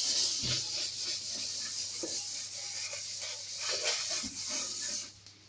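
Soapy steel-wool scourer scrubbing a kitchen faucet, a continuous rub made of many quick strokes that stops shortly before the end.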